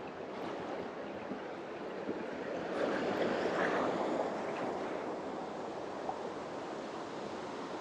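Steady rush of a mountain waterfall, swelling a little around the middle.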